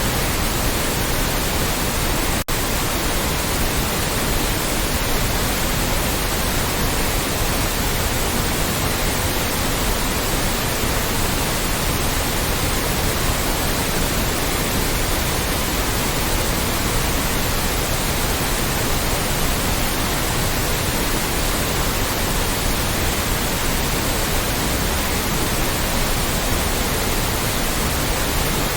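Loud, steady white noise: an even hiss spread across all pitches, with one very brief dip about two and a half seconds in.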